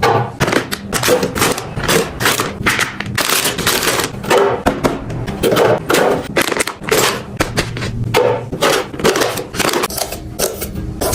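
Food containers and packages being handled and set down while a refrigerator is stocked: a dense, irregular run of clicks, taps and knocks.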